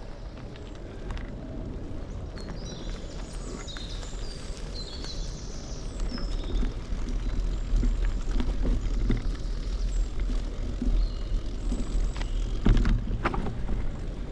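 Bicycle ride on a trail: wind rumbling on the microphone and tyres rolling, getting louder about six seconds in, with a few knocks and rattles near the end.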